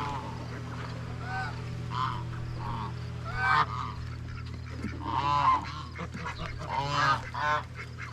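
Domestic waterfowl giving repeated short, harsh calls, coming more thickly about five seconds in, over a steady low hum.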